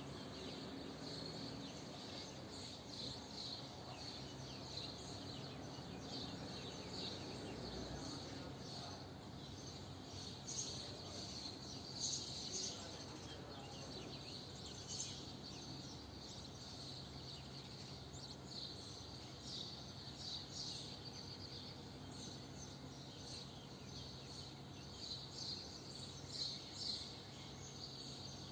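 Swallows twittering in many short, quick chirps, over a steady low hum.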